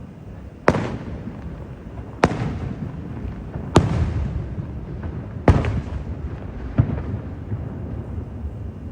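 Aerial fireworks shells bursting: five sharp bangs about a second and a half apart, each followed by a rolling rumble.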